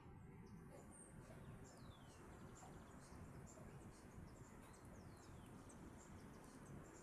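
Faint wild birds calling: many short, high chirps and two descending whistles, over a low background rumble.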